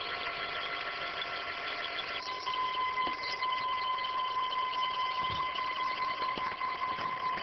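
Stepper motors of a CNC hot-wire foam cutter whining with steady tones as the machine moves. The tones change about two seconds in, when the motion changes, and settle on one steady whine.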